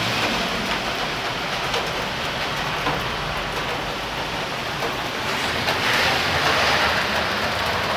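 Steady hiss of rain and spraying water, swelling a little about six seconds in.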